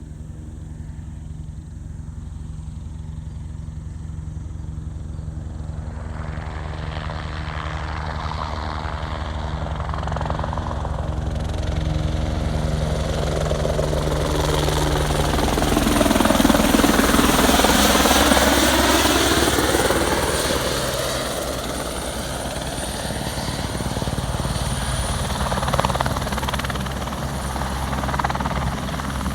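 Crop-spraying helicopter's rotor and engine drone, growing louder as it comes in and passes low and close a little past halfway, then easing off again.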